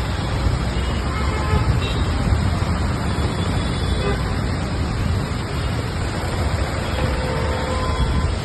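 Road traffic on a flooded, rain-soaked road: a steady dense rush of vehicle and water noise, with a few short, faint horn toots.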